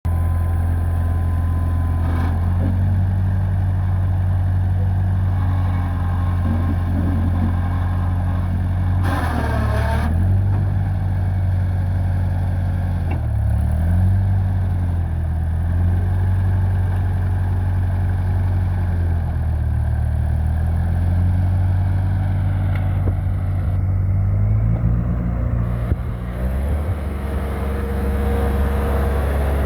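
Ford 8N tractor's four-cylinder flathead engine running steadily. Its speed shifts up and down a few times: briefly about a third of the way in, again a few seconds later, and over several seconds near the end.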